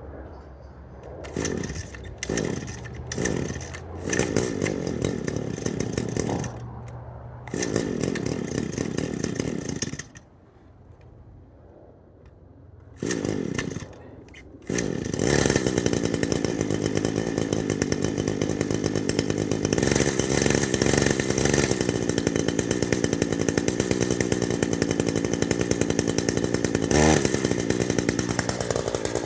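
Echo string trimmer's small two-stroke engine being cold-started: it fires in short bursts and runs briefly, dies about ten seconds in, fires again briefly, then catches about halfway through and runs steadily. A hard cold start in cold weather that takes a few pulls.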